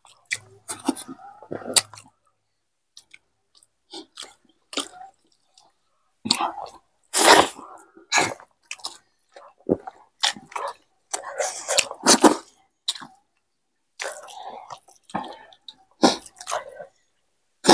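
Close-up eating sounds: mouths chewing and smacking on rice and egg curry, with fingers working the food on steel plates. These come as irregular short wet clicks and bursts separated by brief silences.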